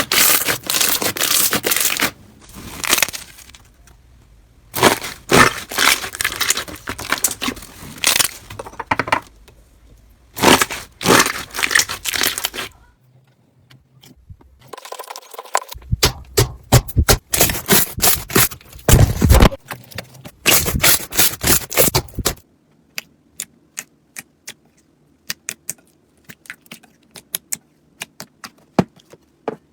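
Slime being squeezed and poked by hand, crackling and popping in dense runs of small sharp clicks, in several bursts broken by short quiet gaps. In the last part only scattered single clicks and pops remain.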